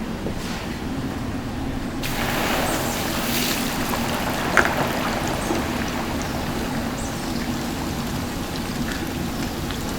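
Hot oil sizzling as food deep-fries, the sizzle growing louder about two seconds in, with a single sharp click near the middle.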